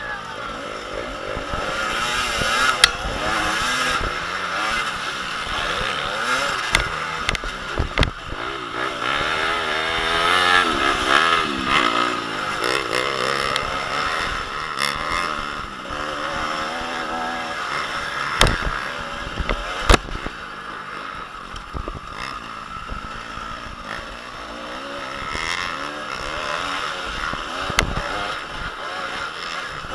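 Motocross bikes racing, several engines revving up and down and overlapping, with a few sharp knocks.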